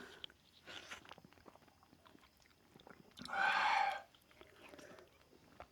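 Close-up mouth sounds of a person chewing food, with small wet clicks throughout. About three seconds in there is a louder hiss lasting under a second.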